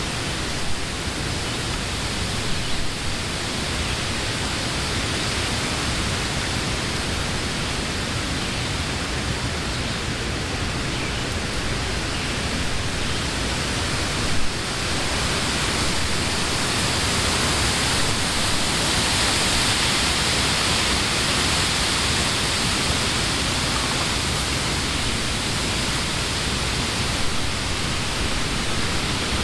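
Wind blowing through leafy summer trees, a steady rushing of leaves that swells a little louder about halfway through.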